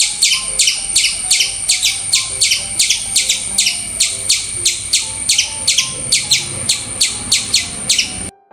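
Squirrel calling in a rapid series of sharp, high chirps, about three or four a second, that cuts off abruptly near the end. Soft piano notes sit underneath.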